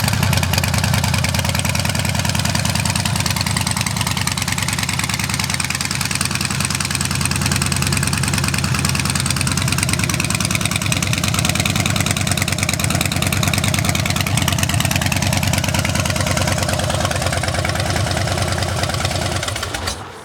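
2011 Harley-Davidson Super Glide Custom's Twin Cam 96 V-twin idling steadily through a Vance & Hines Big Radius 2-into-2 exhaust, with a Kuryakin high-flow air cleaner and Stage 1 tune. The engine sound stops near the end.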